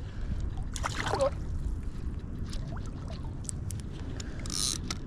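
Water splashing and trickling at the side of a kayak while a hooked fish is played, with scattered small clicks and a short splash about four and a half seconds in.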